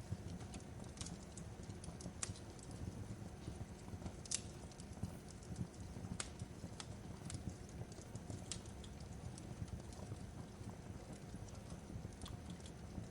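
Wood fire crackling: a low steady rumble with irregular sharp pops and snaps, the loudest snap about four seconds in.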